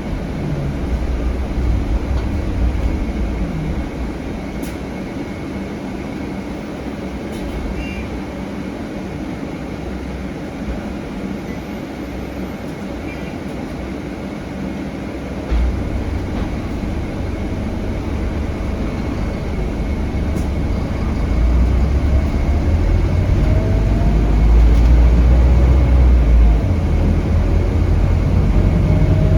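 Scania K320HB bus heard from on board: its Scania DC9 five-cylinder diesel and the road noise give a steady low rumble. About halfway through, the low engine sound steps up suddenly and grows louder for about ten seconds as the engine works harder, with faint rising whines near the end.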